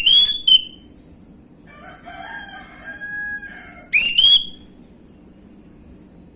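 Orange-headed thrush (anis merah) song: two loud, sharp, rising whistled phrases, one at the start and one about four seconds in. Between them comes a softer, varied warbling phrase.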